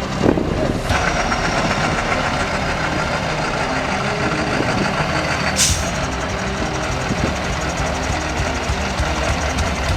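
Diesel engine of a Steyr trial truck running steadily with a heavy, knocking note. A short hiss a little past halfway through.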